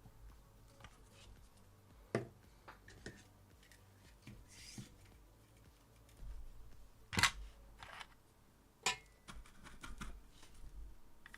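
Scattered light clicks and taps from small tools and a circuit board being handled, the sharpest about two, seven and nine seconds in.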